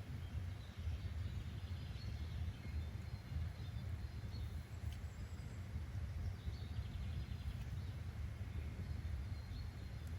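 Nature-sounds ambience: a steady low rumble of background noise with faint, scattered bird chirps.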